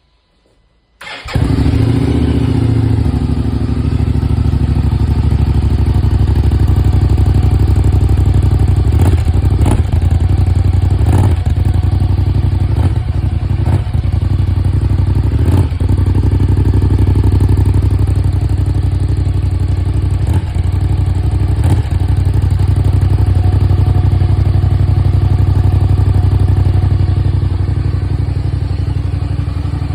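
Kymco CV3 scooter's parallel-twin engine fired up about a second in, then idling steadily through its Arrow aftermarket silencer, with a few brief clicks along the way.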